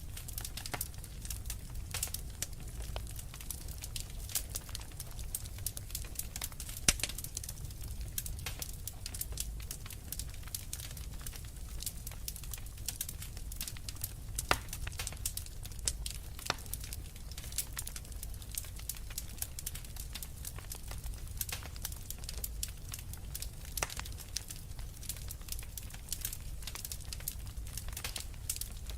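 Wood fire of burning logs crackling, with frequent irregular sharp pops over a low steady rumble of the flames; the loudest crack comes about seven seconds in.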